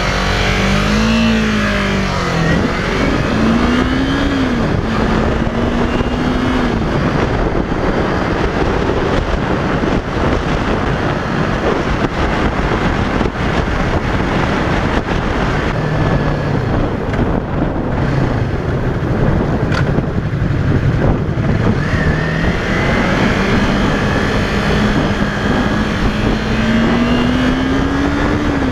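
Yamaha YZF-R3's parallel-twin engine pulling away and accelerating through the gears, its pitch climbing and dropping at each upshift in the first few seconds, under heavy wind rush from riding. Near the end it winds up in one long, slow climb before the next shift.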